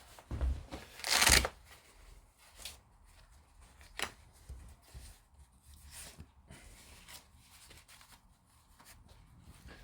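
Small objects being handled on a hobby desk: a short burst of rustling about a second in, then scattered light clicks and taps.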